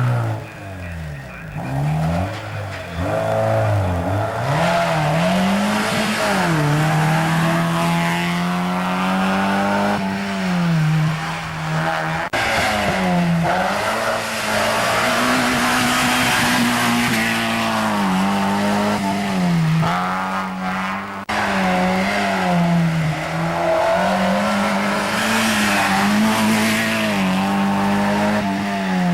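Mazda MX-5 Cup race cars' four-cylinder engines at full racing speed, the pitch climbing and dropping back over and over as they rev through the gears and lift for corners, with some tyre squeal.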